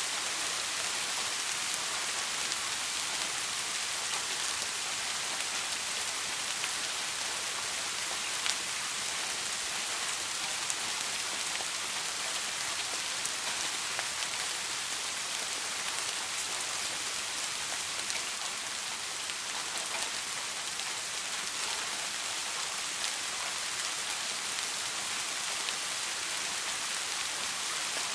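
Steady soft rain: an even hiss of rainfall with scattered individual drops ticking on a surface.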